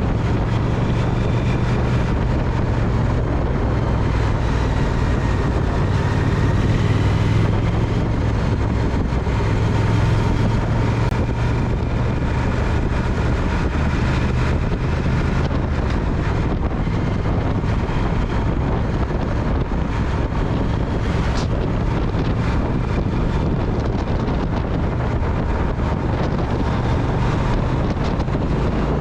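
Triumph Speed Twin's parallel-twin engine running at a steady cruise while riding, with wind rushing over the microphone.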